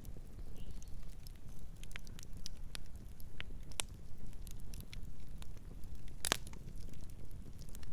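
Fire crackling: irregular sharp pops and snaps over a steady low rumble, with one loud pop about six seconds in.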